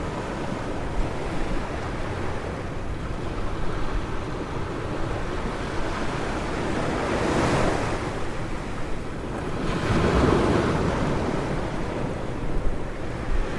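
Ocean surf washing onto a beach, with two louder swells of breaking waves past the middle, over a low wind rumble on the microphone.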